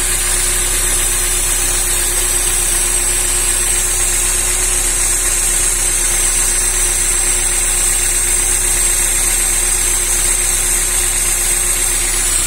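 Car engine idling steadily, heard from underneath the car, freshly refilled with new oil after an oil change.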